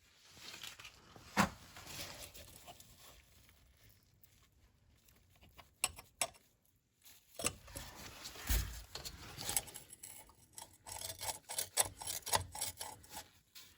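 Scattered clicks, clinks and scrapes of hand tools and metal parts being handled during work under a car, with a dull thump about eight and a half seconds in and a quicker run of clicks near the end.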